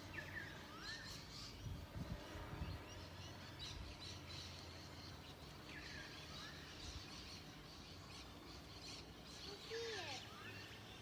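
Several birds chirping and calling, with short falling whistles and a couple of lower arched calls near the end, over a faint steady low hum. A few low thuds come about two seconds in.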